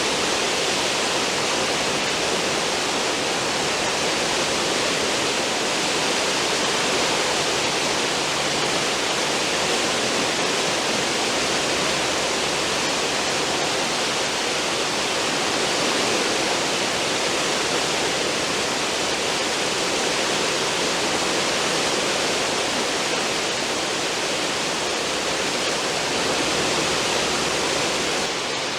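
A cruise ship's stern wake: water rushing and churning in a steady, even hiss.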